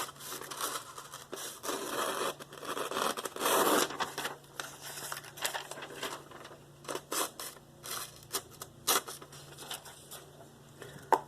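Irregular scraping and rustling handling noises with scattered sharp clicks, busiest in the first few seconds.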